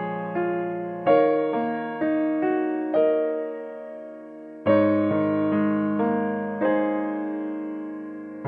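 Background piano music: slow, gentle notes and chords, each struck and left to fade, with a longer held chord near the middle.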